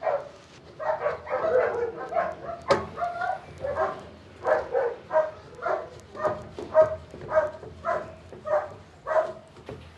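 Dog barking repeatedly, a quick run of short barks at about two a second.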